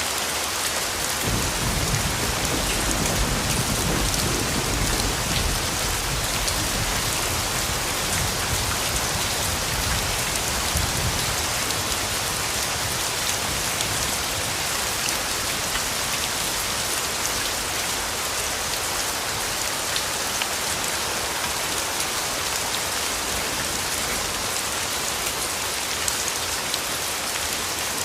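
Steady rain falling with a dense hiss of drops, and a low rumble of distant thunder that swells just after the start and dies away before the halfway point.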